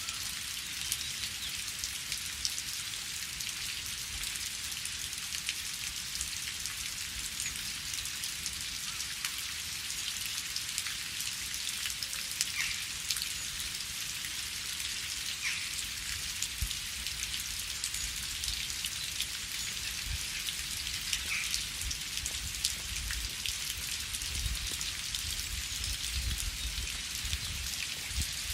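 Steady rain falling, a dense hiss scattered with the ticks of single drops hitting leaves and other surfaces, with a soft low rumble growing in the second half.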